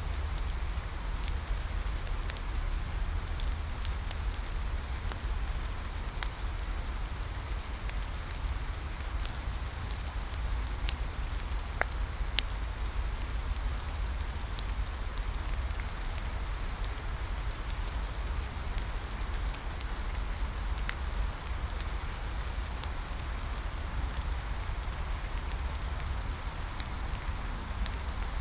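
Steady rain falling, with scattered sharp crackles and pops from a wood bonfire, over a constant low rumble.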